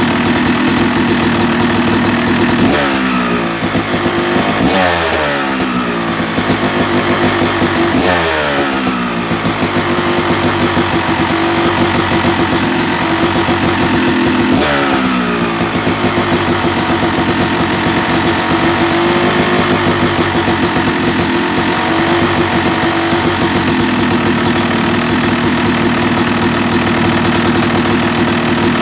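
Yamaha YZ250 two-stroke motocross engine, freshly rebuilt and taken out to 270cc, idling steadily. It is blipped four times, about 3, 5, 8 and 15 seconds in, and each time the revs fall back down to idle.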